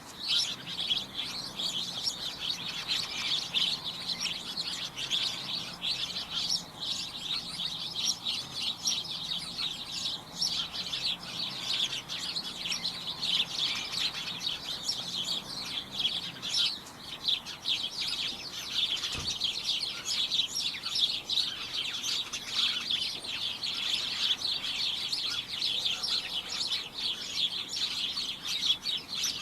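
A flock of small birds chirping continuously in a dense, overlapping chorus of short, high chirps.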